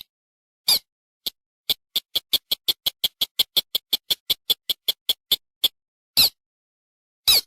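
Lure recording of a paddy-field rail or crake calling: a couple of single high notes, then a rapid run of short clipped notes at about five or six a second, then two more single notes.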